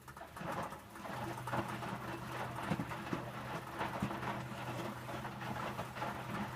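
Electrolux W455H commercial washing machine starting its wash action on a load of towels: a steady low motor hum sets in about a second in, with water and wet towels splashing and sloshing irregularly in the drum.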